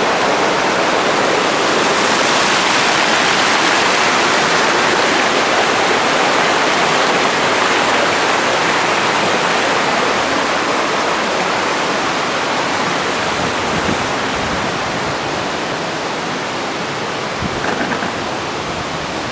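Waterfall: a loud, steady rush of falling water that eases slightly toward the end.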